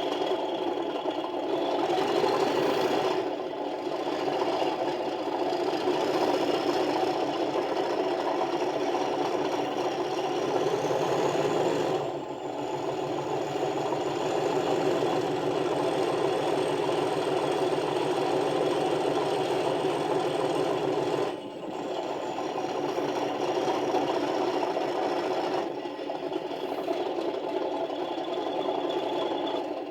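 Sound decoder in an OO gauge Class 37 model locomotive playing its English Electric diesel engine sound through a small speaker, revved with drive hold on so the model stays still. The engine note climbs over the first dozen seconds, holds high, and drops back down about two-thirds of the way through.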